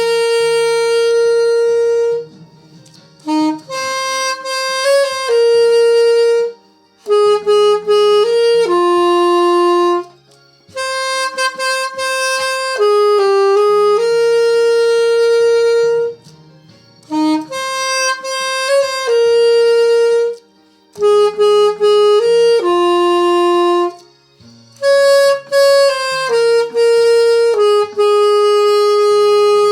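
A wind instrument plays a slow melody in long held notes, in phrases of a few seconds with short pauses between them, over a quiet low accompaniment.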